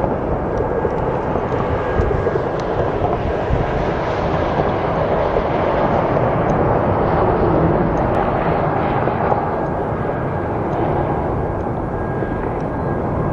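Airplane noise: a steady roar with a faint high whine running through it, holding much the same level throughout.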